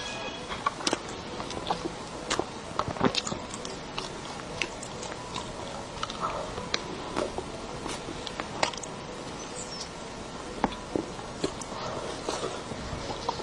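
Close-miked eating of soft cream cake: wet chewing and lip smacks, heard as irregular sharp clicks several times a second.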